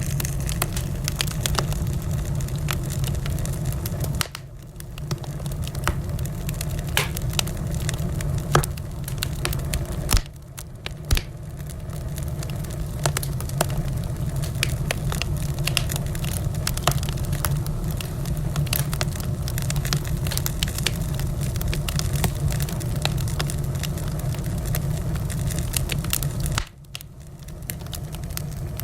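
Wood fire in a fireplace, crackling with irregular sharp pops over a steady low rumble. The sound dips suddenly and briefly three times.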